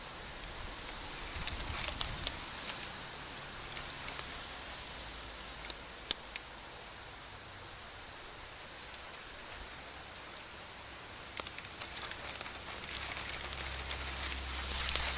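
Heavy rain falling: a steady hiss of rain with scattered sharp drop impacts, growing busier and slightly louder near the end.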